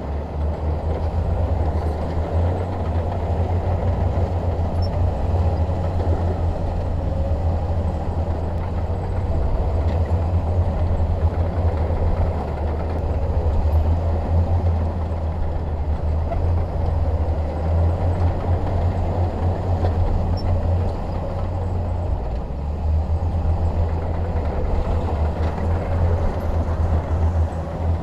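Shantui DH17 bulldozer's diesel engine running steadily with a deep, even rumble.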